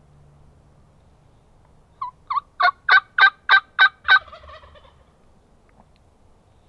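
Wild turkey tom gobbling once, close and loud: a rapid rattling run of about eight notes lasting about two seconds, trailing off at the end.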